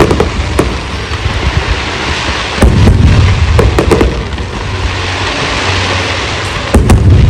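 Aerial fireworks shells bursting with loud bangs, a cluster about two and a half to four seconds in and another near the end, over a continuous rushing hiss.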